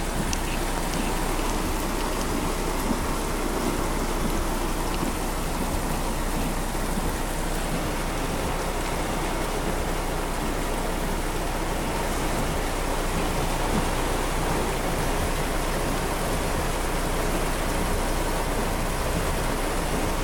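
Heavy rain falling steadily on a car, heard from inside the cabin.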